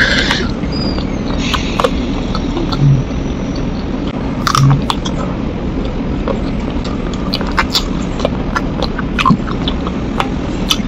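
Close-up mouth sounds of a person biting and chewing spicy chicken feet: irregular wet clicks and smacks, over a steady low hum.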